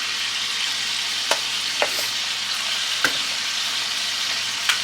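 Food frying in a cast iron skillet, a steady sizzle with four short sharp clicks or pops over it.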